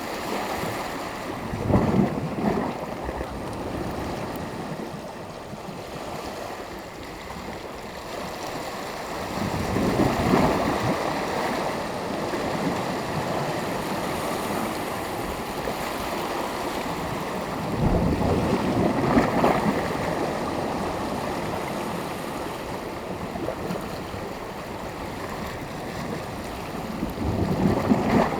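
Sea waves breaking on the shore, with a louder surge of surf about every eight seconds between a steady wash of water.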